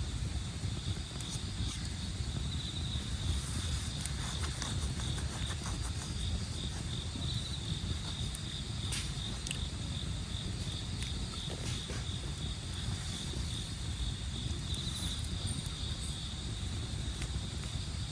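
Wood campfire crackling with scattered sharp pops, over crickets trilling steadily in a high pulsing chirp and a constant low rumble.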